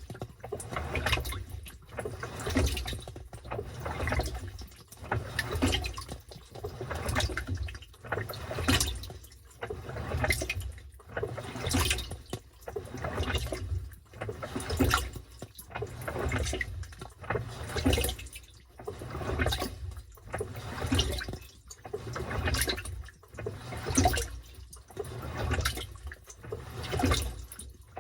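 Washing machine sloshing water and laundry around its drum in a regular rhythm, a splashing surge about every second and a half, as it agitates during a wash cycle.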